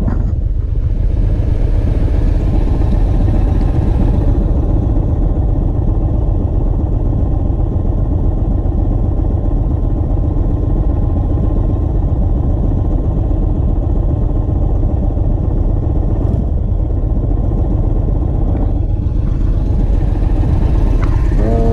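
Indian Chief Bobber's V-twin engine idling steadily while the motorcycle waits at a stop.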